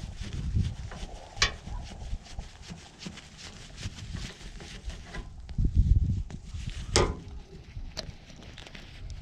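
Handling noise from working on the wiring at an air conditioner's outdoor terminal block: rubbing, dull low thumps loudest about six seconds in, and a few sharp clicks, about a second and a half in, at seven seconds and at eight seconds.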